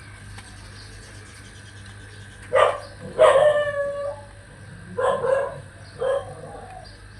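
A dog barking four times, the second bark drawn out longer than the others.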